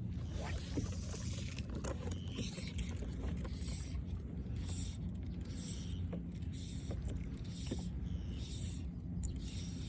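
Water lapping against a kayak hull with a steady low rumble of wind and water. From a few seconds in, a short high raspy sound repeats about once a second.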